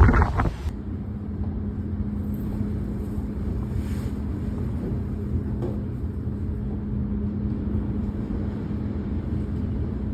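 A brief burst of wind buffeting the microphone, then after a sudden change a steady low rumble with a constant low hum, as of a motor vehicle running.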